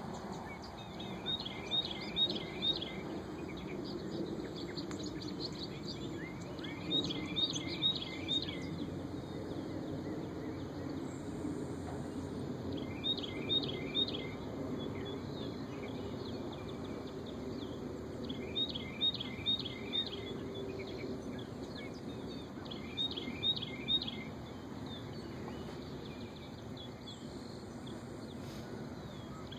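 A songbird singing the same short phrase of quick high notes about every five seconds, over steady low outdoor background noise.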